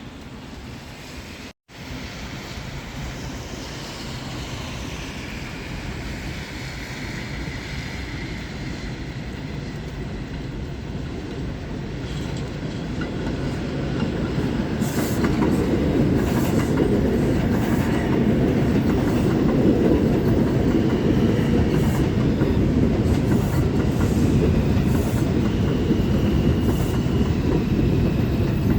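R142-family New York City subway train on the Jerome Avenue Line coming in, its rumble building to a steady loud roll about halfway through, with wheels clicking over rail joints and some high wheel squeal. A falling whine runs through the first several seconds.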